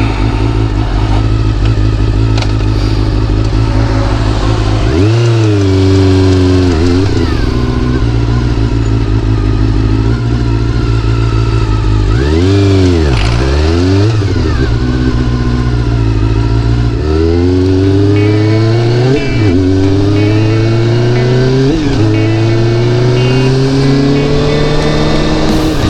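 Honda CBR400RR's inline-four engine revved up and down twice, then pulling away and accelerating through the gears, its pitch climbing with a short drop at each upshift.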